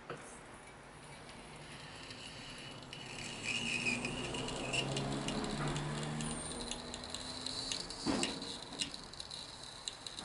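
Faint clinks and rattles of an engine hoist and the engine hanging from it as it is moved, with a single knock about eight seconds in.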